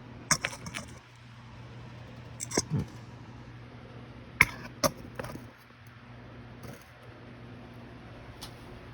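1997 Harbor Breeze Summit ceiling fan's motor giving a steady low hum, with a few sharp clicks and knocks in the first five seconds.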